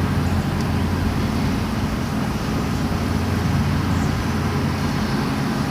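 Steady low engine rumble with a wide hiss over it, unchanging throughout.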